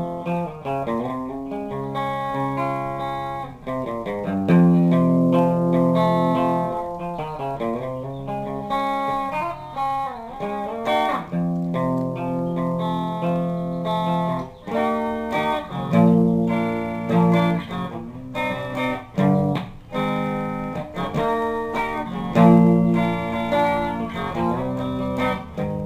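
Electric guitar played through a Crate GX-10 amplifier on its clean, undistorted channel: a run of chords and single notes that ring on and change every second or so.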